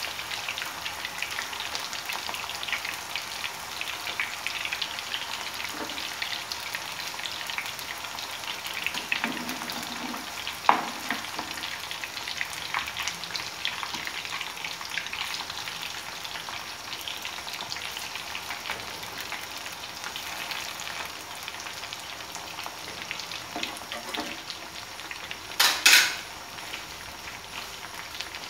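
Mutton koftas deep-frying in very hot oil in a frying pan: a steady crackling sizzle of bubbling oil. A sharp knock comes about ten seconds in, and a louder double clatter near the end.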